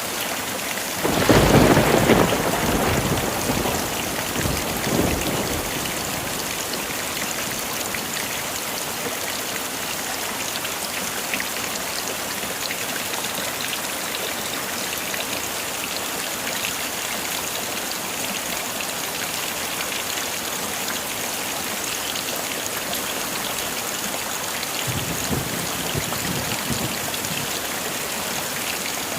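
Heavy rain falling steadily, with a loud rumble of thunder starting about a second in and dying away over several seconds, and a fainter roll of thunder near the end.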